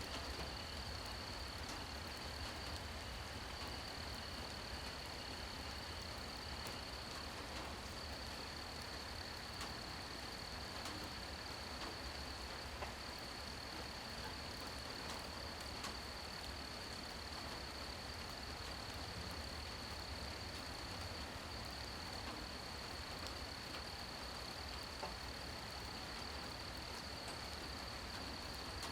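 Night ambience of steady rain hiss with night insects trilling in one unbroken high-pitched tone. A second, fainter insect voice stops about seven seconds in.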